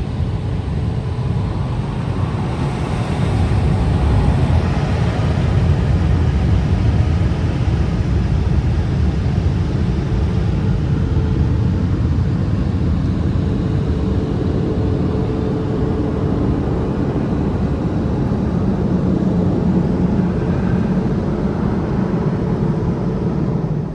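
Automatic car wash air dryers blowing at full force, a loud steady rush of air that blasts the water off the car. It swells a few seconds in as the blowers move over the car, then drops away right at the end.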